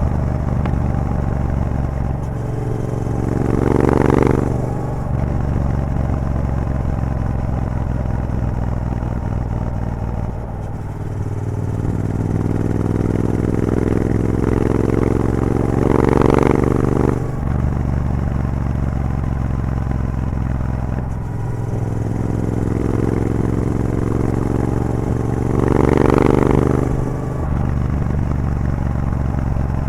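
Triumph Bobber's 1200 cc parallel-twin running through a Vance & Hines exhaust with the catalytic converter removed, under way on the road. Three times the engine note climbs in pitch under throttle to a louder peak and then drops away.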